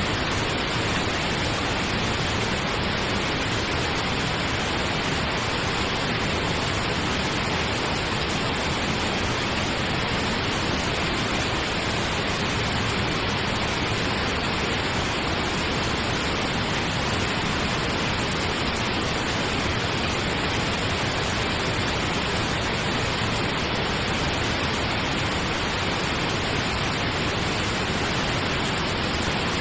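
Steady pink noise: an even, unbroken hiss with no change in level, played as a sleep aid.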